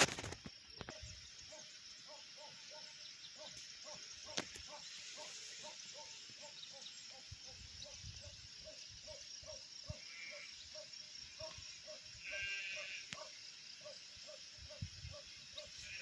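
Faint outdoor birdsong over a steady high hiss: a soft call repeats two to three times a second throughout, and a short bird trill comes about twelve seconds in.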